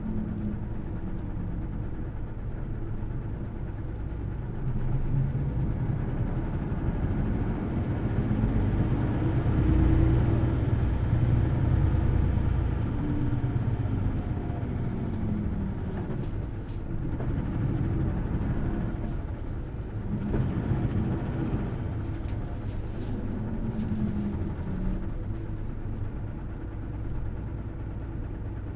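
Hino Blue Ribbon City Hybrid bus's diesel-electric drive running on the road, the engine revving up in several surges with the loudest pull around ten seconds in. A faint high electric whine rises and falls alongside the strongest surge.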